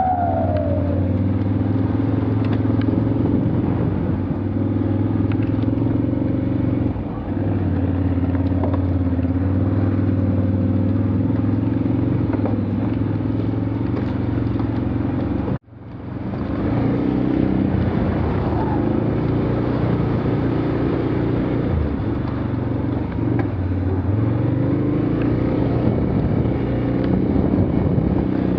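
Off-road vehicle engine running steadily under load while driving through mud, its pitch shifting a little with the throttle; the sound cuts out for an instant just past halfway.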